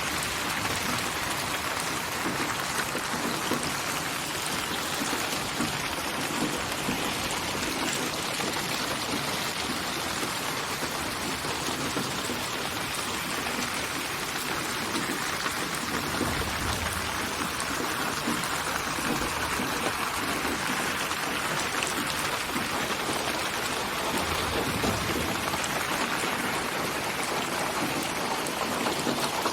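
Steady, dense rainfall: heavy rain pattering evenly on surfaces without letting up.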